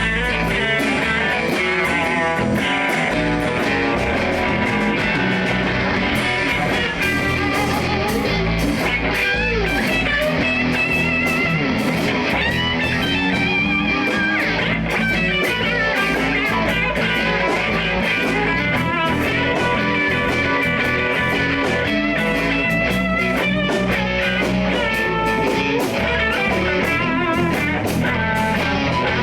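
Live blues band playing an instrumental passage: electric guitar over bass and drums, with a wavering lead line and a steady beat.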